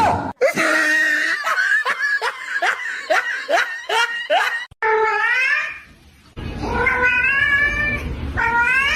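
Domestic cats meowing and yowling: a fast string of short cries, then several long, drawn-out meows that rise in pitch.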